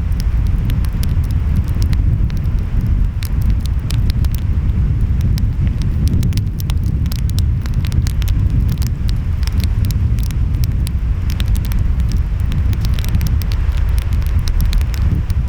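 Wood fire crackling, with frequent sharp pops scattered throughout, over a steady low rumble of ocean waves and wind.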